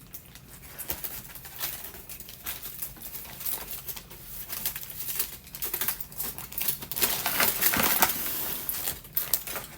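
Rapid clicks and crinkling from food containers, wrapping and seafood being handled while eating, busiest and loudest about seven to eight seconds in.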